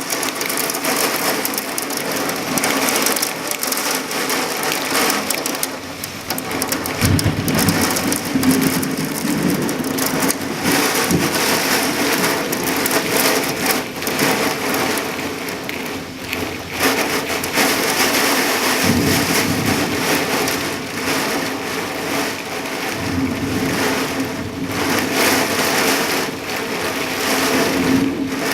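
Thunderstorm: steady heavy rain, with several low rolls of thunder, the first about seven seconds in and more later.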